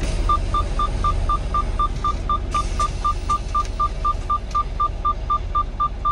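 Warning chime in a semi-truck cab beeping steadily about four times a second, starting just after the start, over the low rumble of the idling diesel engine.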